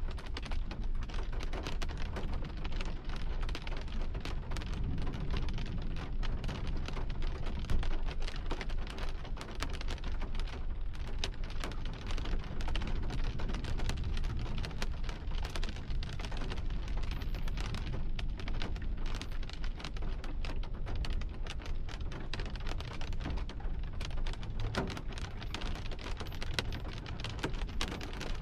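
Heavy rain pattering on a hard surface during a thunderstorm: a dense, steady spatter of drops over a low rumble, with one louder hit about eight seconds in.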